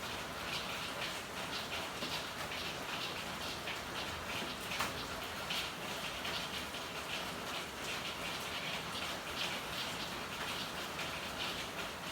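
Steady rain falling in an alley, with a dense scatter of small drop impacts and drips on hard surfaces over an even wash of noise. One sharper drip or tap stands out about 5 seconds in.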